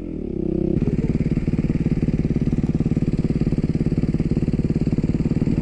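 Yamaha MT-07 parallel-twin motorcycle engine idling steadily, a quick even pulsing that lifts slightly about a second in and then holds.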